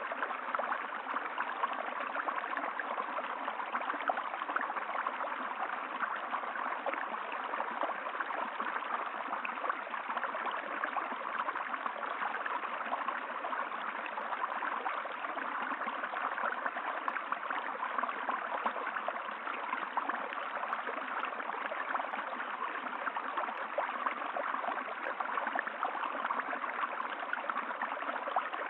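Running water from a stream, babbling and gurgling steadily without a break.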